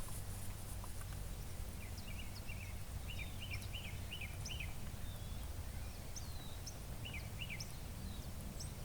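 Small birds chirping, with quick runs of short repeated notes and scattered higher chirps, over a steady low outdoor rumble.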